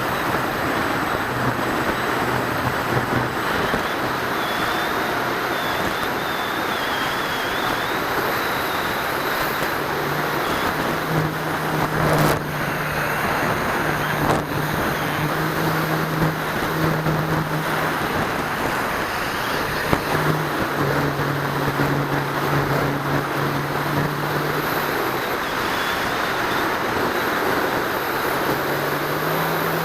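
In-flight audio from a camera riding on a Dynam C-47 RC airplane: steady wind rush over the microphone, with a low hum from its two electric motors and propellers that drops away and returns as the throttle changes. A brief click about twelve seconds in.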